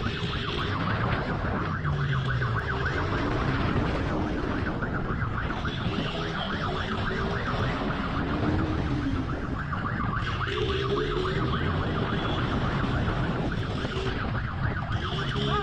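Motorcycle engine running at speed under heavy wind noise during a pursuit, with a siren wailing up and down over it.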